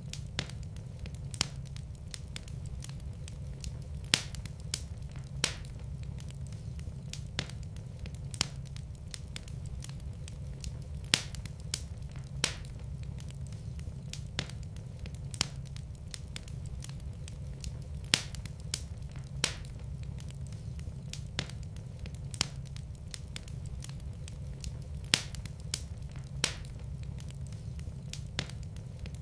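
Wood fire burning in a fireplace, crackling with sharp, irregular pops every second or two over a steady low rumble of the flames.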